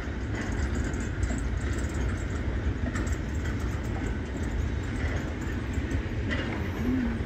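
Goods wagons of a heritage train rolling across a steel-girder railway bridge overhead, making a steady low rumble.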